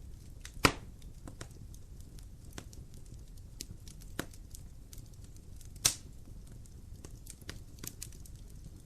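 Wood fire in a fireplace crackling: scattered small snaps over a low steady rumble, with two sharp loud pops, one under a second in and one about six seconds in.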